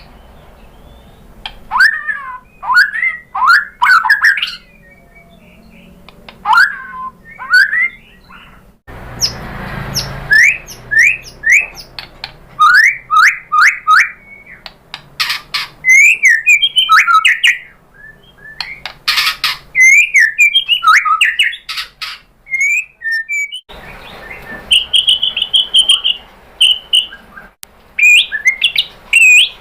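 White-rumped shama (murai batu) in full song: fast, loud, varied whistled phrases sliding up and down, mixed with sharp clicking notes and quick trills. It is the kind of aggressive song played to provoke caged shamas into answering.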